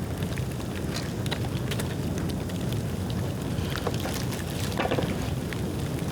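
Bonfire of dry bamboo burning: a steady low rumble with scattered crackles and sharp snaps, a few of them clustered near the end.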